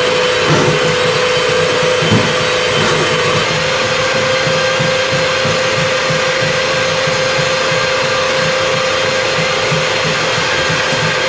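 A machine running steadily, with a constant whine over a rushing noise.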